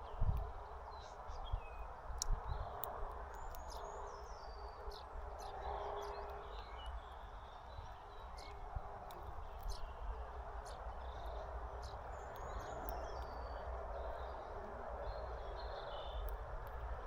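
Small songbirds chirping and twittering in many short, scattered calls over a steady background hum, with a few low thumps in the first couple of seconds.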